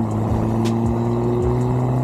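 Car engine and exhaust droning at steady revs, the pitch creeping slightly upward.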